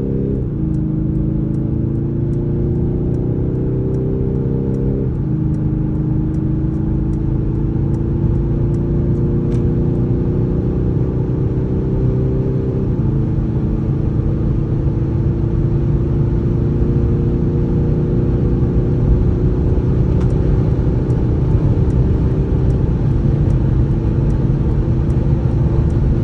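Mercedes-Benz E220d's 2.0-litre four-cylinder diesel engine under full-throttle acceleration, its pitch climbing and then dropping at each upshift of the 9G-TRONIC nine-speed automatic. It shifts up four times, with the gaps between shifts growing longer as speed builds, over a steady low rumble of road and wind noise.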